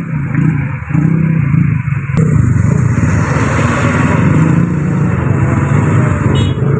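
Old truck's diesel engine running hard under load, a steady low hum with a rush of mechanical and road noise building from about two seconds in.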